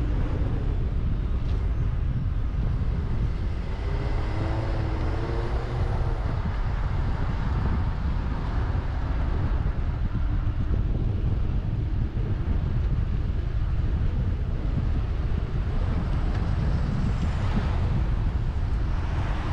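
Steady wind rumble buffeting the microphone of a moving bicycle, with a faint wavering pitched sound about four to six seconds in.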